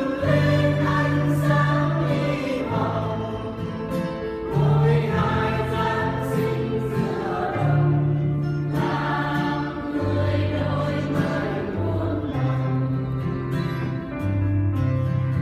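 Church choir singing a Vietnamese hymn with instrumental accompaniment, a held bass note under each phrase.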